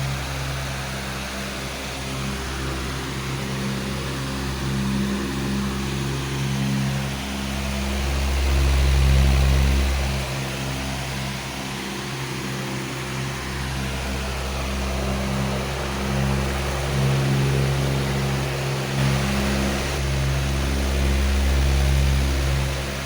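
Powerful electric fan running steadily: a low motor hum under an even rush of air, the hum swelling and easing every few seconds.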